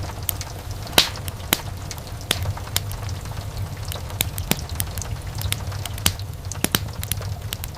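Wood burning in a fireplace, crackling with irregular sharp pops, about two or three a second, over the low steady rumble of the flames; the loudest pop comes about a second in.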